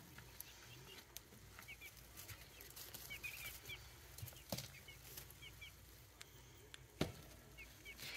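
Faint, short, high peeps from young poultry, repeated in little runs, with a couple of soft knocks, the loudest about seven seconds in.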